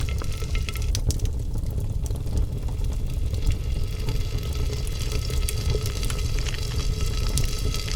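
Wood cooking fire crackling, with scattered sharp pops and snaps over a steady low rumble.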